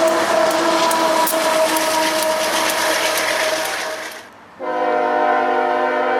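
Freight train rolling past with loud rail and wheel noise, steady squealing tones and scattered clicks from the wheels. After a sudden break about four seconds in, a diesel locomotive horn sounds a steady chord.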